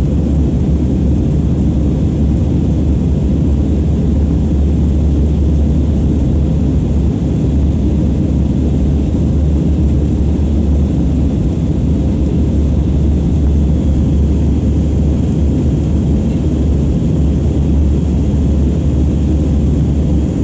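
Steady cabin noise of an Airbus A320 airliner: engines and airflow heard from inside as a loud, even, low drone.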